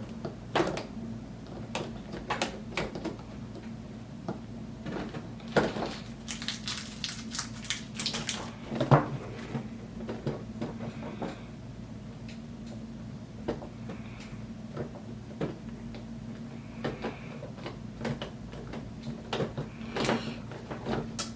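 Hands working on roller skates: scattered clicks, knocks and light rattles as plastic plugs are screwed into the holes left by the removed toe stops, with a busier stretch of handling about a third of the way in.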